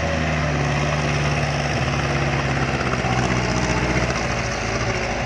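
Diesel engine of a Mitsubishi Fuso Canter dump truck pulling under load as it climbs out of a dirt pit. The engine note steps down in pitch about two seconds in and again near four seconds in.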